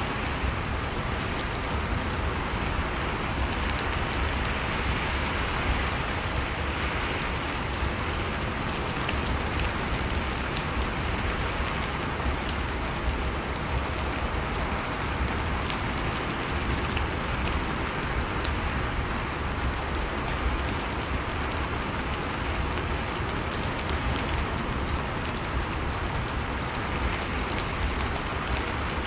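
Steady rain falling, an even hiss with the patter of many small drops.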